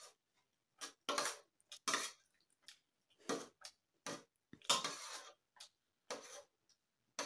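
An eating utensil clinking and scraping against a dish of instant noodles: a string of about eight short, separate clinks and scrapes, the longest scrape about five seconds in.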